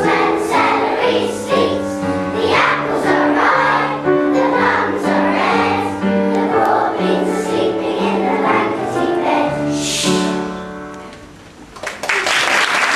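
Children's choir singing a song over held low accompaniment, finishing about eleven seconds in. A short burst of noise follows near the end.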